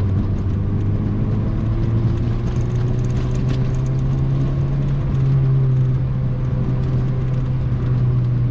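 Mazda MX-5 NC's 2.0-litre four-cylinder engine running through its modified exhaust while driving, with a steady, slightly deep note. The pitch rises a little from about two seconds in and eases back around six seconds.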